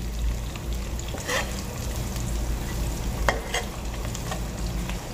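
Sliced shallots and garlic sizzling as they sauté in oil in a speckled non-stick wok, stirred with a metal spatula. A few sharp scrapes or taps of the spatula on the pan come about a second and a half in and twice more past three seconds.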